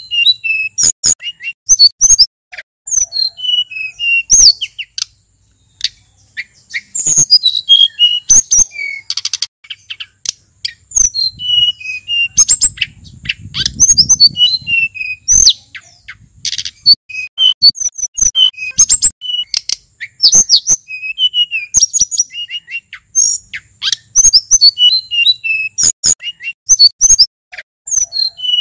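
Male sulingan gunung songbird singing a fast, varied song of short high whistled notes, slurs and trills, with a brief pause about five seconds in.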